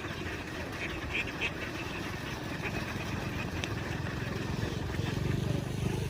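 An engine running steadily with a fast, even pulse, growing louder toward the end. A few short duck quacks come about a second in.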